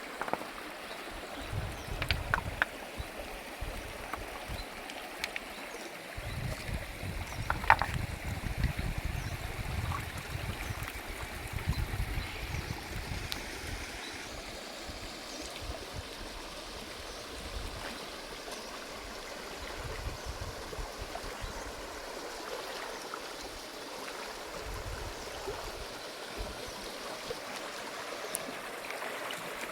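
Stream water running steadily, with a few sharp clicks and knocks, the loudest about eight seconds in, and uneven low rumbling.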